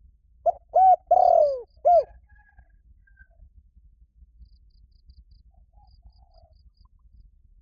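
Spotted dove cooing one phrase of four notes, two short, one long that falls in pitch at its end, and a last short one, the call used to lure wild doves. Faint high chirps of small birds follow.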